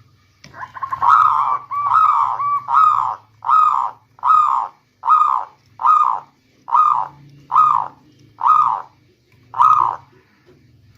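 Local zebra dove (perkutut lokal) cooing: a quick run of notes, then about ten short coos in an even rhythm, under a second apart, stopping about ten seconds in.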